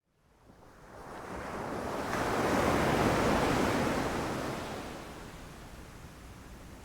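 Sea waves washing onto a beach: the surf fades in from silence, swells to a peak about three seconds in and ebbs away, with the next wave starting to build near the end.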